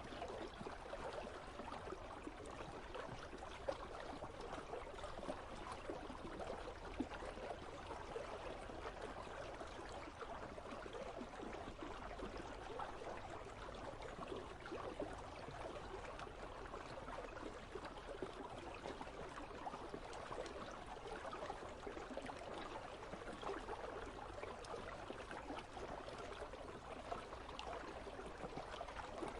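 Icy river flowing steadily: a constant babble and trickle of running water.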